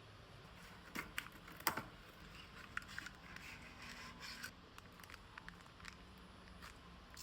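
Small clicks, taps and light scraping of kitchen items being handled, the sharpest click about a second and a half in.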